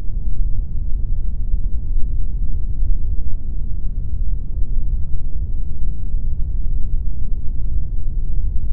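Continuous pink noise: an even, unchanging rush, deep and heavy at the bottom with little hiss on top.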